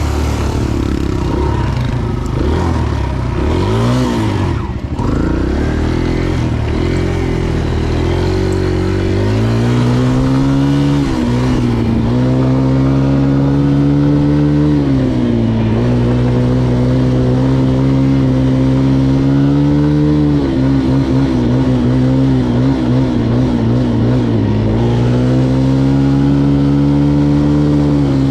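Dirt bike engine running under way, uneven for the first several seconds, then held at a steady pitch. The pitch dips briefly four times as the throttle is eased off and opened again.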